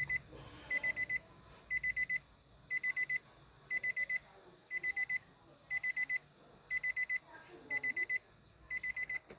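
Electronic alarm beeping in groups of four short high-pitched beeps, about one group a second.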